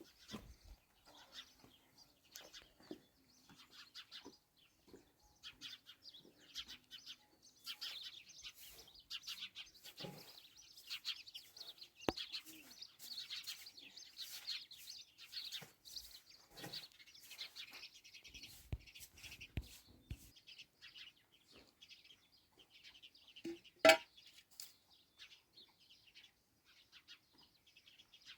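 Small birds chirping in a busy, rapid chorus, densest through the middle, with one sharp knock about three-quarters of the way through.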